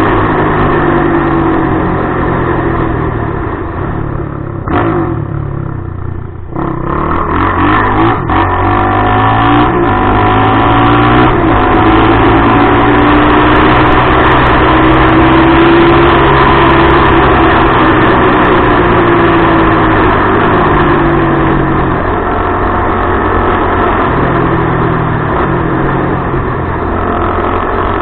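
Suzuki LTR450 quad's 450 cc single-cylinder four-stroke engine with a DMC aftermarket exhaust, running hard. Its pitch and loudness drop about five seconds in, then climb and hold high, with slow rises and falls, through the middle before easing near the end.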